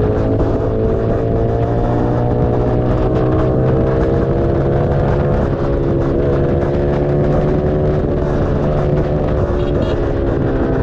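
Keeway SCR 250's 250cc V-twin running through a Racefit free-flow exhaust. Its pitch climbs slowly for about five seconds, then dips slightly halfway through and carries on.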